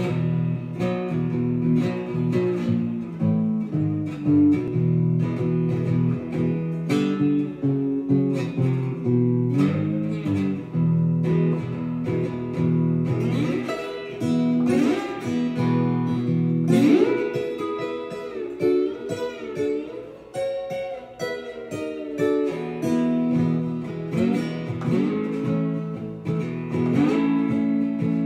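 Ovation resonator guitar played with a slide: blues in E, with plucked notes and chords and many sliding glides up and down in pitch.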